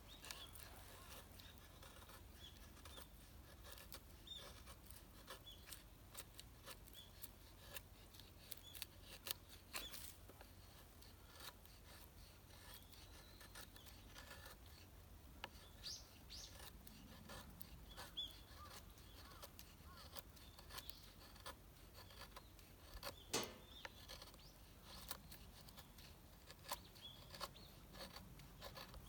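Near silence, broken by scattered faint clicks and short high chirps, with one sharper click about two-thirds of the way through.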